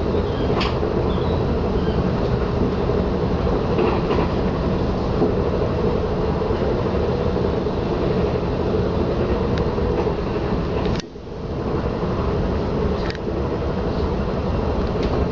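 Cabin noise of a KLIA Ekspres electric train running at speed, heard from inside the carriage: a steady rumble with a few faint clicks. The level dips briefly about eleven seconds in.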